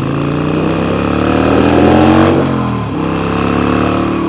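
Harley-Davidson Sportster V-twin engine accelerating hard, its pitch climbing for about two seconds, falling away once at a gear change near the middle, then climbing again.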